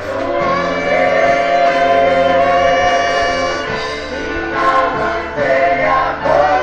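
Gospel vocal group singing in harmony over instrumental accompaniment, with long held notes.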